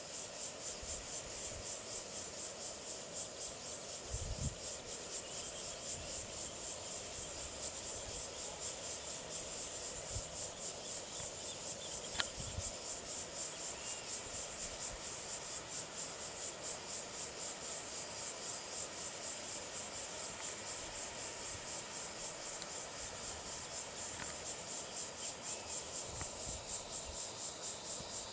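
A steady, high, rapidly pulsing trill from an insect chorus, with a sharp click about twelve seconds in.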